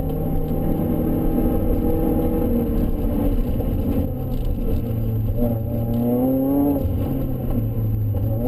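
Supercharged Mazda MX-5's four-cylinder engine heard inside the cabin while driving hard on track, running loudly at a steady pitch, then revving up just past halfway and dropping back about seven seconds in.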